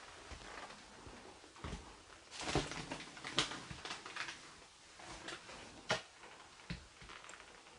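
Faint, irregular taps and rustles, with a few sharper clicks about three and a half and six seconds in.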